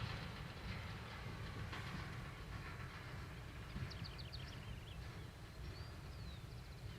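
Faint, steady low rumble of a diesel freight locomotive, with small birds chirping in short runs around the middle and near the end.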